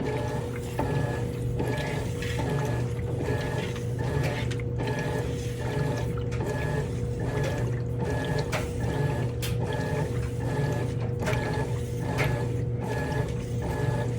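Kenmore high-efficiency top-load washing machine agitating. Its motor whines in short, even strokes about one and a half times a second, over a steady low hum.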